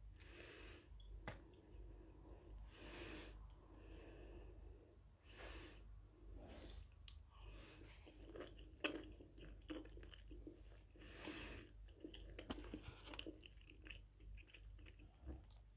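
Close-up chewing of cooked shrimp: soft, irregular wet mouth sounds and small clicks, with a few longer hissy breaths between bites.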